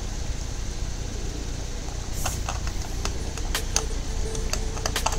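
Scattered light clicks and taps of handling a circuit board and small tools, over a steady low rumble and hiss of background noise.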